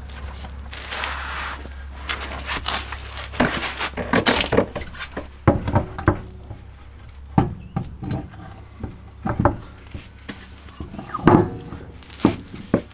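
Hand work with tools and parts: irregular knocks, clicks and metallic clinks, some brief rustling, over a faint steady low hum.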